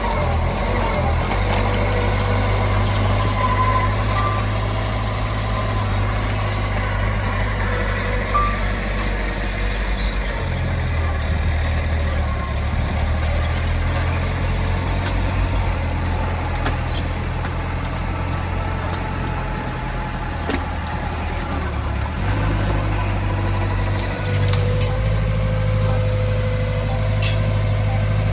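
Heavy diesel earthmoving machinery running steadily, its engine note shifting about ten seconds in and again a little after twenty seconds.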